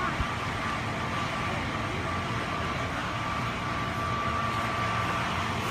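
Steady motor-vehicle running noise, a low rumble with a faint steady whine over it.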